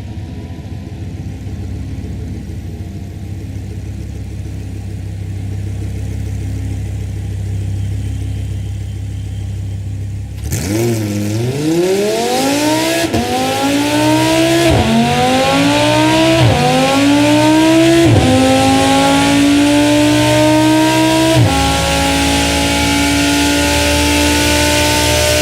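Audi R8 V10 Plus's 5.2-litre V10 accelerating hard, revving up through the gears: the pitch climbs and drops back five times at each upshift, then holds high near the end. Before that, for about the first ten seconds, there is only a low steady rumble.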